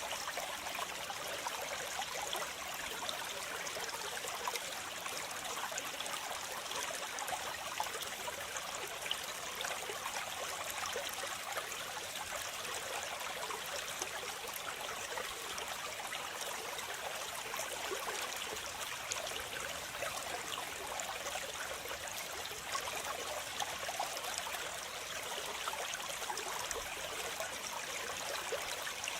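Waterfall: a steady rush of falling and splashing water, with fine crackling splashes and little low rumble.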